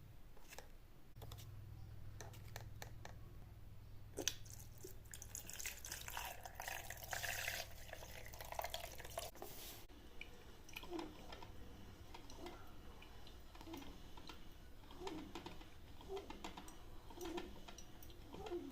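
Water running and splashing for a few seconds, with scattered clicks and knocks of handling before and after.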